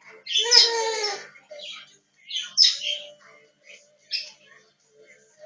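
Parrot calling: one loud, drawn-out call lasting about a second, then a run of shorter, high-pitched chirps and squeaks.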